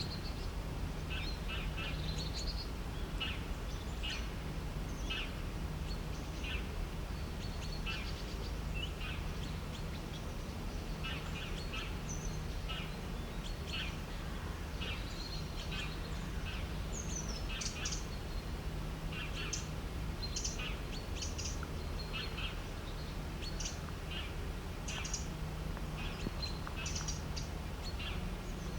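Several small birds chirping and calling in short, quick notes over a steady low rumble.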